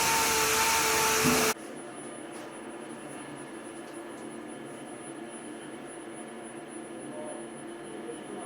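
A power tool runs with a loud hiss and a steady whine, then cuts off abruptly about a second and a half in, leaving a much quieter steady machine hum.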